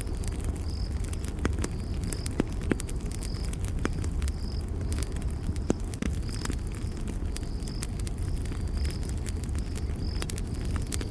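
Campfire crackling: irregular sharp pops and snaps over a low, steady rumble of the flames. A high-pitched insect chirp repeats evenly, a little faster than once a second.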